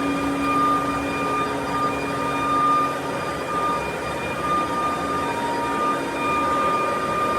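Steady running machinery noise with a continuous whine that wavers slightly in strength.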